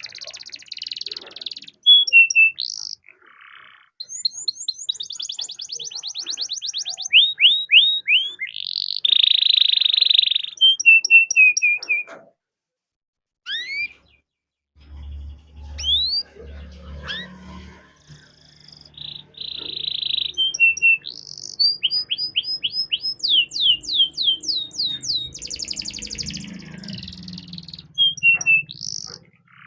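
Domestic canary singing in fast trills and rapid series of rising chirps, with a pause of about two seconds midway. A low hum runs under the second half.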